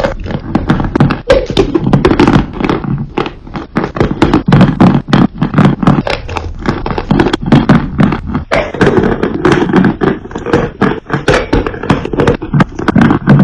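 Dry, powdery crunch clay being crushed and crumbled by hand: a dense, continuous run of crisp crunches and cracks.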